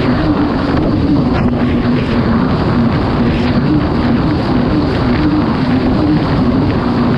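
Kawasaki STX-160 jet ski's four-cylinder four-stroke engine running hard at race speed, its pitch wavering up and down, with water rushing and wind buffeting the microphone.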